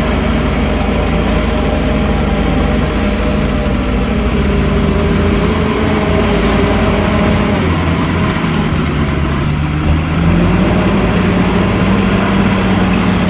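Heavy diesel engine of an earthmoving machine running steadily, its pitch wavering a little as the load changes. It gets slightly louder about ten seconds in.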